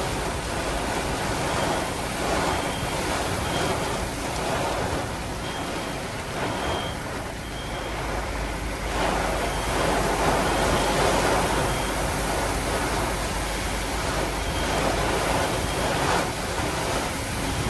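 Heavy tropical downpour beating on a car's roof and windshield, heard from inside the car: a dense, steady rush that swells and eases with the gusts, loudest about two-thirds of the way through.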